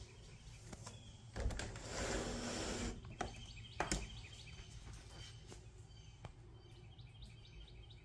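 Birds chirping outside an open window, a scatter of short high chirps that grows busier in the second half. About one and a half seconds in, a rushing rustle lasts a second or so, and a sharp knock comes near four seconds.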